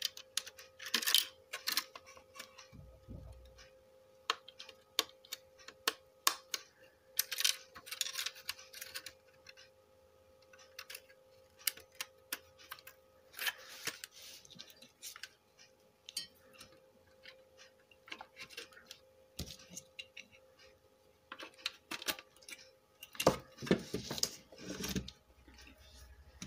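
Scattered clicks, taps and light rattles of wiring harness connectors being plugged into a car stereo head unit and the set being handled, over a faint steady hum.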